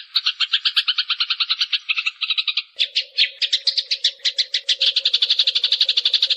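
Eurasian tree sparrows chattering in a fast, unbroken string of short chirps, about eight a second, growing denser near the end. About three seconds in, a low steady hum comes in underneath.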